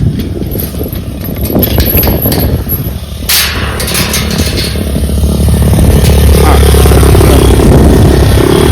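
Dirt bike engine running while riding, getting louder about six seconds in and staying there, with a short rush of noise a little after three seconds.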